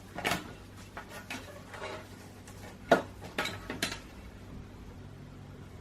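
A handful of sharp clicks and clinks as a headlight reflector is worked loose from its housing, the loudest about three seconds in.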